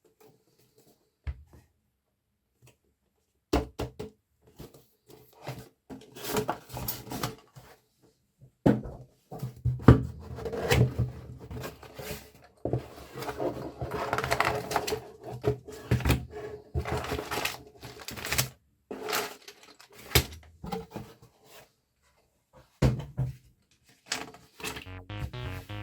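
Plastic LEGO bricks rattling and clicking, with irregular clusters of small clicks and short pauses, as pieces are handled and snapped together.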